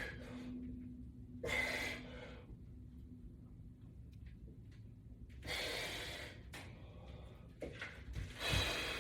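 A man's heavy breaths during a resistance-band arm exercise: three exhalations a few seconds apart, with faint rubbing between them.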